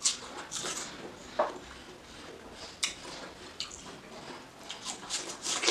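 Biting into and chewing fresh watermelon slices: a string of short bites and chews, with several coming close together near the end.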